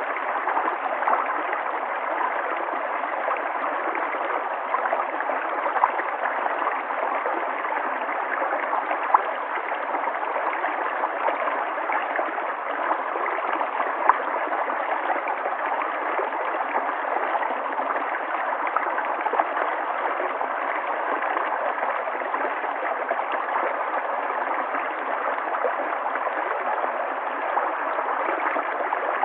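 River water flowing and gurgling steadily, a continuous rushing with small splashes scattered through it.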